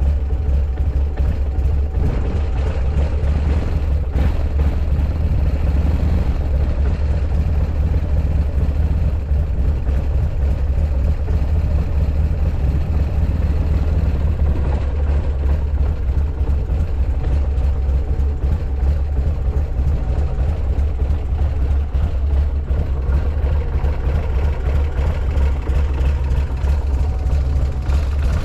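Buell X1 Lightning's air-cooled V-twin idling steadily with a deep low rumble. The seller says it runs with no abnormal noises.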